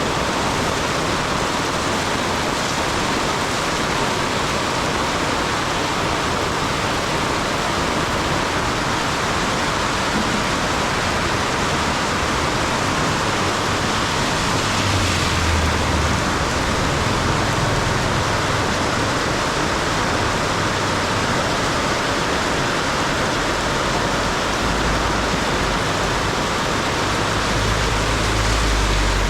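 Heavy rain falling steadily in a dense hiss. A low rumble swells up about halfway through and again near the end.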